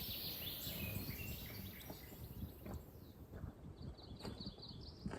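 Outdoor ambience with a low rumble and scattered bird chirps; a bird gives a quick trill of repeated high notes near the end.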